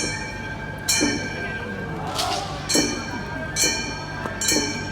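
Gion-bayashi festival music: small bronze hand gongs (kane) struck about five times in a loose repeating rhythm, ringing briefly after each stroke, over a held high flute note.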